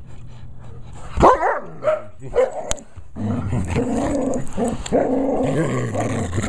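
A dog gives one short bark about a second in, then a long, low growl from about three seconds on. It is growling in protest at having its lip pulled back to bare its fang, in what the owner treats as play rather than a real threat.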